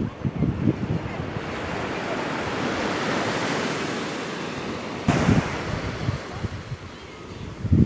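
Sea waves breaking and washing up the shore: one long surge swells and fades, and another wave breaks suddenly about five seconds in. Wind buffets the microphone with low thumps.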